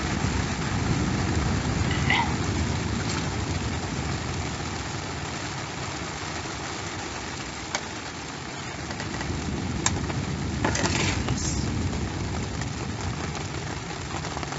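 Storm wind buffeting the microphone in a steady, fluctuating low rumble, with a few sharp clicks and knocks from about eight seconds in.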